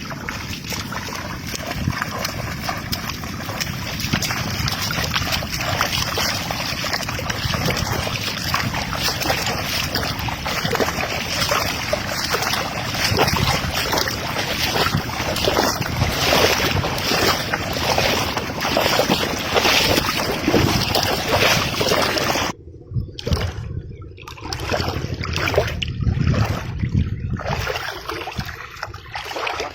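Wind rushing over the microphone, a dense steady noise. About two-thirds of the way through it turns abruptly duller and more gusty.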